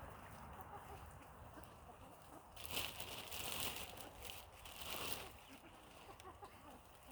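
Faint rustling, loudest for about two and a half seconds in the middle, with chickens faintly in the background while they are fed bread.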